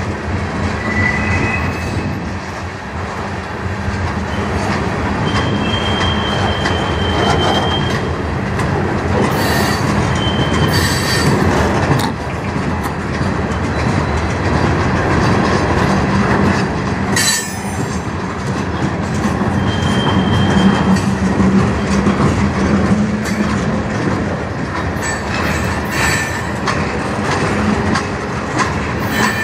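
Freight cars of a mixed manifest train (gondolas, boxcars, tank cars) rolling past close by: a steady rumble of steel wheels on the rails with clickety-clack over the rail joints, a few brief high-pitched wheel squeals and several sharp clanks.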